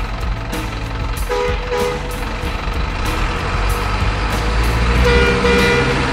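Low truck engine rumble with a two-note horn sounding: two short toots about a second in and a longer blast near the end.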